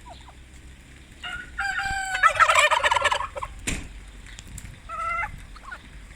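A turkey gobbling: one long, fast rattling gobble about a second in, then a short sharp knock and, near the end, a brief second bird call.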